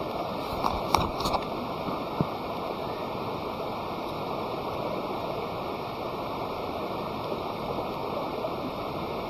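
Steady rushing noise, like a stream, with a few sharp pops of burning wood crackling about a second in and once more around two seconds.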